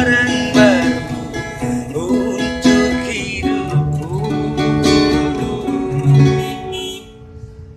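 Closing bars of a dangdut song: live band music led by a plucked guitar melody, stopping about seven seconds in.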